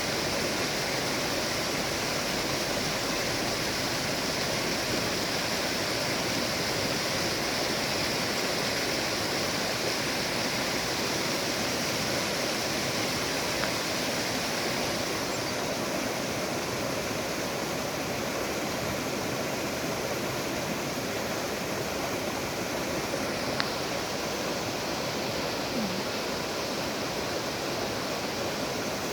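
River water rushing steadily in an even, unbroken wash.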